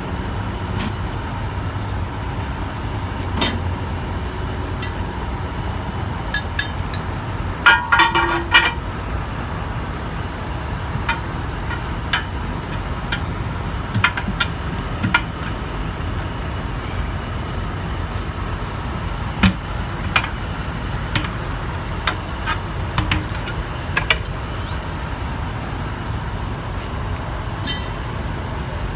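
Scattered metal clanks and taps from work on a semi-truck wheel, over a steady low rumble. The loudest is a brief cluster of ringing, rapid metallic strikes about 8 seconds in.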